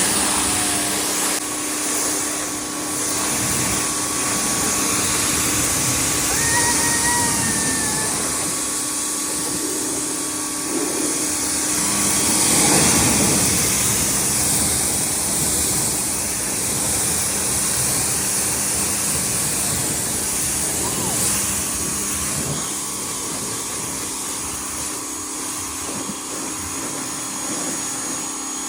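Pressure washer running, its motor humming steadily under a high hiss of spraying water, the spray briefly louder about twelve seconds in.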